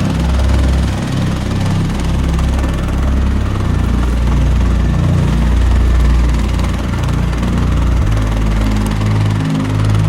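A walk-behind tractor's engine running steadily as it drives along; its note shifts about eight seconds in.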